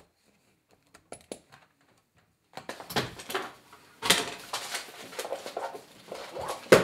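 Papers rustling and small objects knocking as things are handled on a desk. It starts with a few faint clicks and becomes a steady clatter a few seconds in, with a sharper knock near the end.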